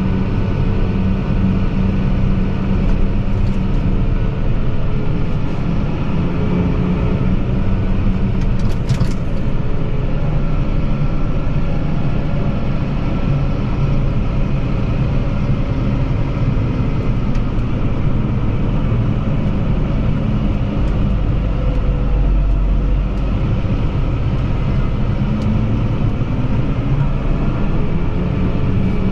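Tractor engine running steadily, its note dipping and then rising again near the end, with a brief rattle of clicks about a third of the way in.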